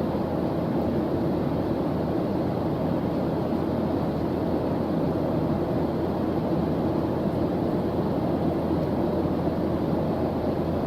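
Steady white-noise background track: an even, unchanging rushing hiss, weighted toward the low and middle range.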